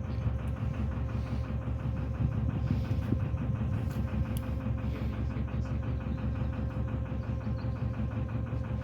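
Narrowboat's inboard engine running steadily at cruising speed, with an even, fast beat and a constant thin tone over it.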